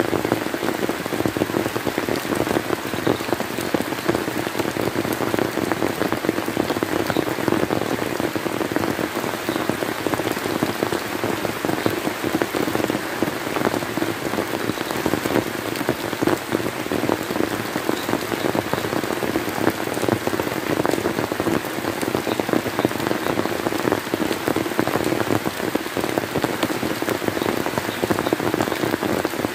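Steady rain falling and pattering on surfaces, a dense continuous hiss of countless drops.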